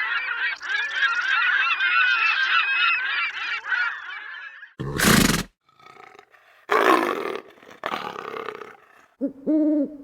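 A string of animal calls: a dense flock of birds calling over one another for the first five seconds, then a sudden short loud blast, two rough, noisy calls, and pitched hooting calls near the end.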